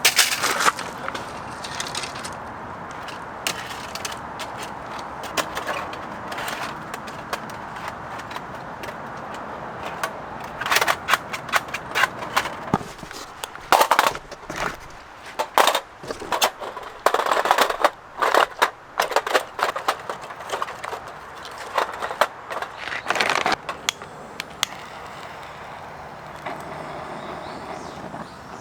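Camping gear being handled and moved: irregular clattering and knocking, busiest in the middle, over a steady background hiss.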